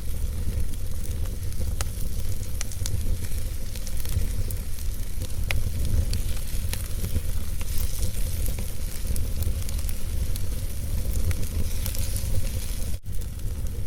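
Wood fire in a fireplace crackling, with irregular sharp pops and snaps over a steady low rumble of the flames. The sound cuts out for an instant near the end.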